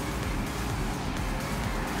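Steady road traffic noise from a nearby multi-lane avenue, a low even rumble after a car has just gone by.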